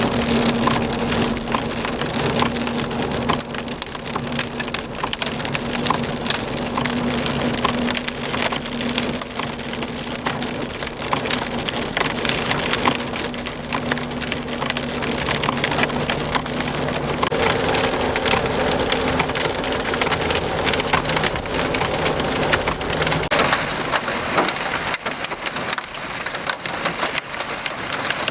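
Heavy rain mixed with small hail striking a vehicle: a dense patter with many sharp clicks of hailstones. A steady low hum runs under it and fades out near the end.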